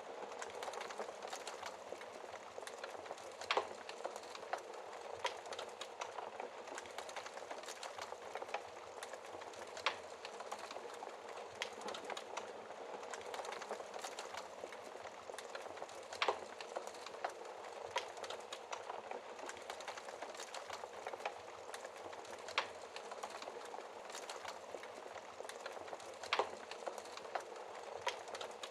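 Wood fire burning in a fireplace: a steady hiss and rustle of flames with scattered small crackles and a louder pop every six seconds or so.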